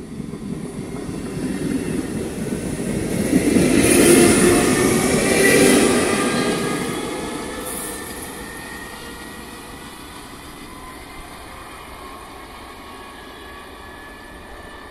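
Two-car ALe 642 electric railcar accelerating away from a station and passing close by. Wheel rumble and the whine of its traction motors build to a peak about four to six seconds in, then fade as it recedes, with the motor whine still climbing slowly in pitch.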